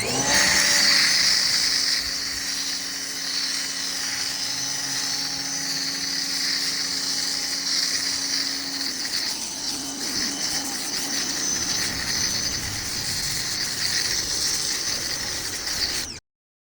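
Sprayer hissing steadily as it sprays Mr. Pink car-wash soap foam onto a motorcycle. It cuts off suddenly to silence near the end.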